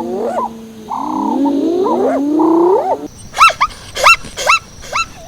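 Animal calls: overlapping squeals that glide up and down for about three seconds, then an abrupt change to a quick run of short, sharp yips.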